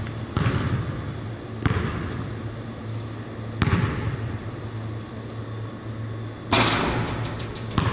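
Basketballs bouncing on a gym floor: a few sharp, irregularly spaced bangs that echo through the hall, over a steady low hum.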